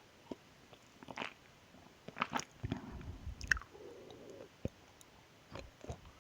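Close-miked mouth sounds of drinking a Mogu Mogu drink: wet clicks and swallows, and chewing of its soft jelly pieces. The sounds are busiest between about two and three and a half seconds in.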